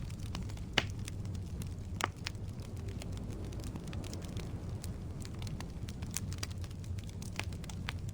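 Firewood burning in a fireplace: a steady low rumble of flames with irregular crackles and sharp pops, two louder pops about a second in and about two seconds in.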